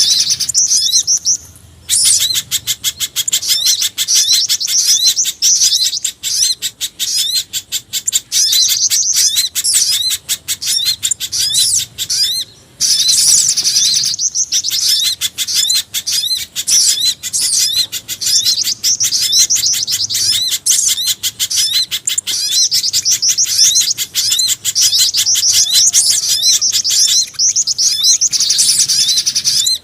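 Bird-lure recording of mixed small-bird calls, spiderhunter among them: dense, rapid, high-pitched chirping repeated many times a second, with short breaks about two seconds in and near the middle. It is played to attract small birds.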